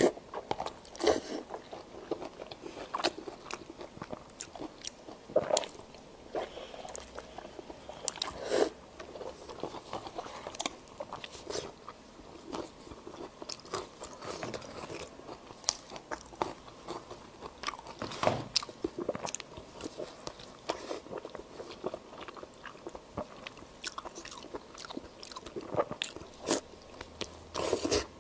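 Close-miked biting and chewing of Chinese blood sausage (xuechang): irregular wet bites and chewing, with a few louder bites scattered through.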